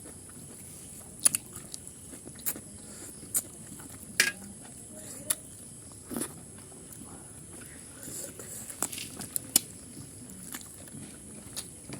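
Close-up eating sounds of pork curry being chewed: wet mouth noises with short, sharp clicks and smacks every second or two.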